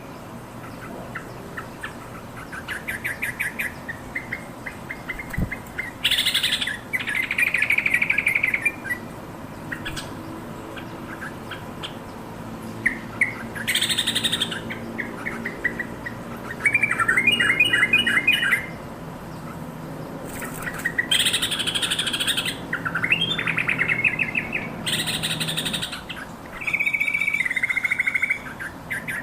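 Yellow-vented bulbul calling: a run of short, rapid, bubbly chattering phrases, with a louder harsh, scratchy burst every few seconds.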